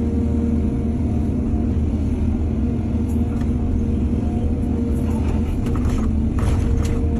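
Excavator's diesel engine running steadily, with a few short scrapes and knocks from about five to seven seconds in.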